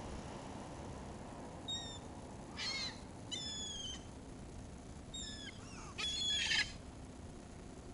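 Gulls calling: about five short cries, falling in pitch, some harsh and raspy, the loudest one near the end.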